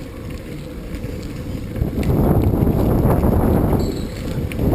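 Wind buffeting the microphone while riding a bicycle: a low, rumbling rush that grows louder about two seconds in.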